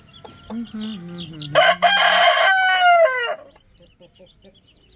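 Rooster crowing once, about two seconds long, ending in a drawn-out falling note, over the faint peeping of chicks.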